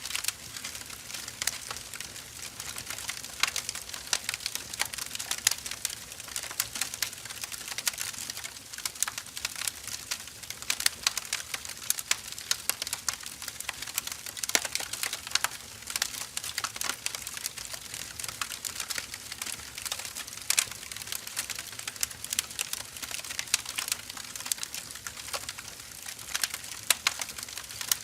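Firewood burning with a steady hiss and dense, irregular crackling and popping.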